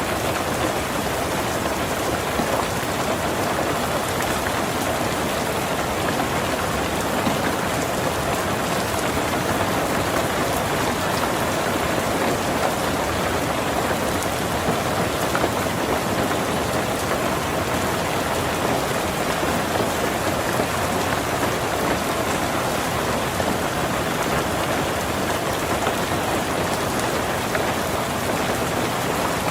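Heavy rain falling steadily on a tin roof, an even patter with no let-up.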